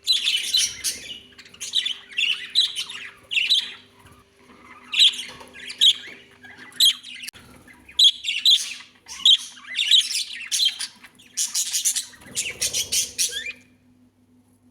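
Pet budgerigars squawking and chattering in repeated harsh bursts, several calls at a time with short pauses between groups; the calling stops near the end.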